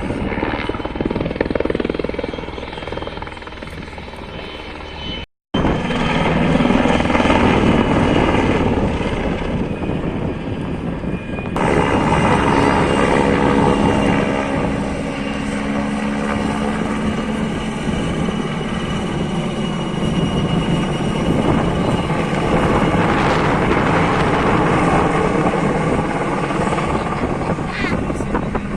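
Aircraft engine running steadily overhead, a continuous drone with a steady hum in it. It drops out abruptly for an instant about five seconds in, then returns louder.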